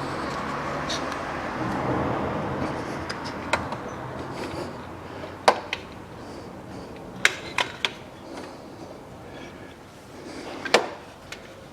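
Hands working a new poly-V drive belt onto the engine's accessory pulleys: rubbing and handling noise at first, then a series of sharp clicks and knocks, the loudest about five and a half and ten and a half seconds in.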